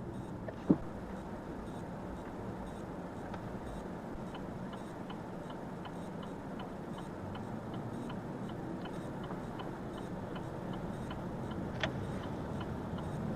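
Steady road and engine noise inside a moving car's cabin, with a turn-signal indicator ticking evenly about two times a second. A single sharp knock about a second in.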